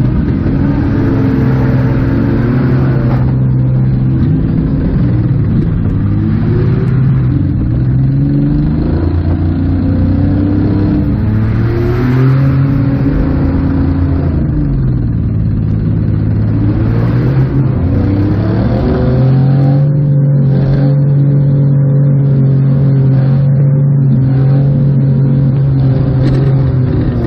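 Minivan engine revving up and easing off over and over, heard from inside the stripped-out cabin. From about two-thirds of the way through it holds a steady high rev.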